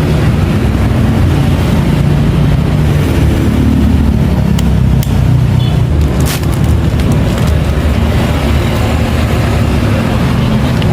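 Motorcycle engine running steadily with a low drone, with a couple of brief sharp clicks in the middle.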